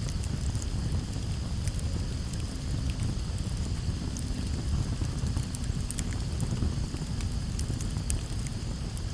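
Campfire burning, with a steady low rumble and frequent sharp crackles and pops.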